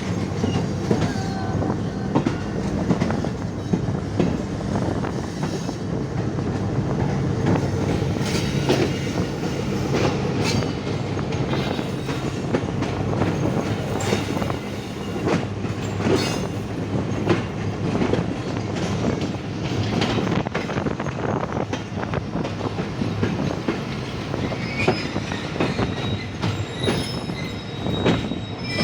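Passenger train hauled by a GEU-40 diesel-electric locomotive rolling into a station, with a steady drone and wheels clicking over the rail joints. Thin high wheel squeals start a few seconds before the end.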